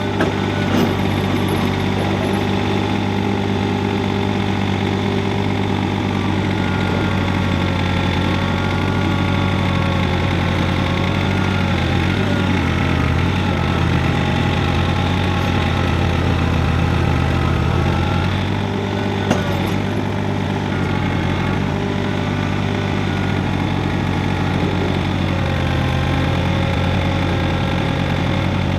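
John Deere compact three-cylinder diesel tractor engine running steadily while plowing snow with a front blade, its pitch wavering slightly with the load, with a brief click about two-thirds of the way through.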